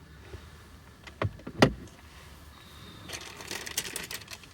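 Handling noise from objects being moved about: two knocks, the second sharper, about a second and a half in, then light clicking and rattling over the last second and a half.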